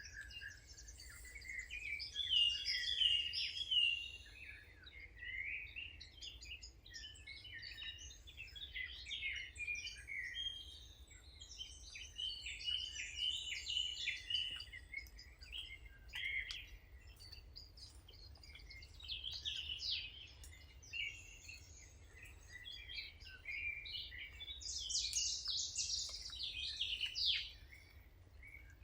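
Several songbirds singing and chirping together in overlapping, unbroken phrases, with louder flurries of song near the start and near the end. A faint steady low hum runs underneath.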